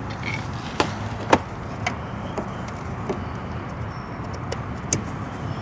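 Sharp, scattered plastic clicks and taps as a side marker light and its bulb socket are worked into the car's body panel, the two loudest about a second in, over a steady low rumble.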